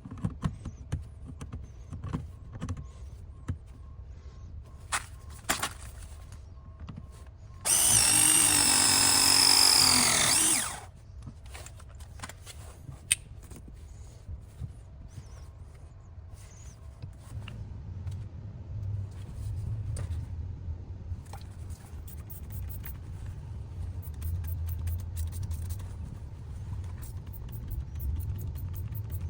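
A handheld power tool, drill-like, runs hard for about three seconds and winds down as it stops, amid scattered clinks and knocks of tools being handled. In the second half a low steady hum comes in under the clicks.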